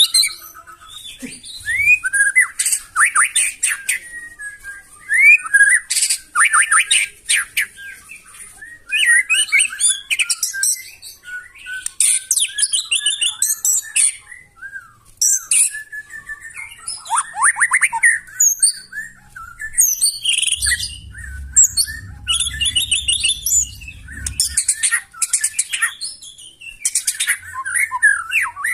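White-rumped shama (murai batu) singing a fast, varied song of clear whistles, rising and falling glides and harsh, rapid trilled phrases, with hardly a break. A low hum joins in for about four seconds past the middle.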